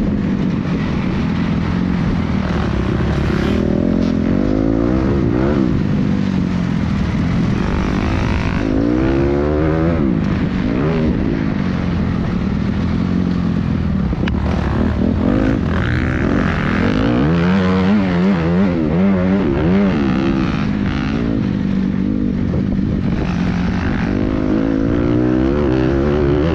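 Motocross bike engine running hard, its pitch rising and falling again and again as the rider accelerates, shifts and rolls off.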